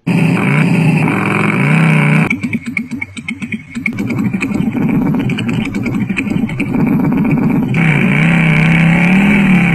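Kids' electric ride-on motorcycle toy playing its simulated engine sound, a steady motorcycle-like drone whose pitch rises and falls as if revving.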